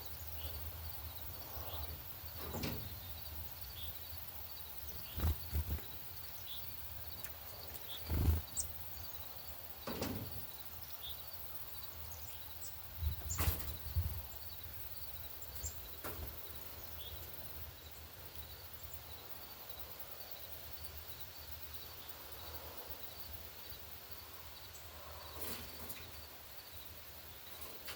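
Outdoor bird ambience: small birds giving short, high chip notes here and there over a faint, steady repeating pulse of an insect-like call. Several low bumps, the loudest sounds, come in the first half.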